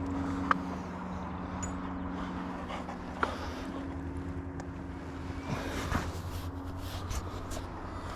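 Steady drone of an engine running at a constant speed, with a few light clicks and rustles over it.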